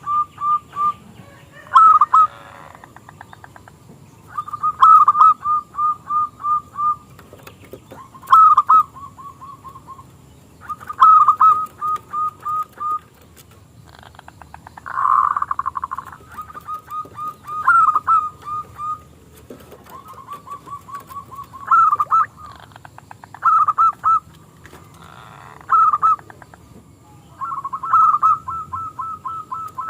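Local-strain zebra dove (perkutut) cooing: repeated phrases of fast, pulsing coos, a new phrase every two to three seconds.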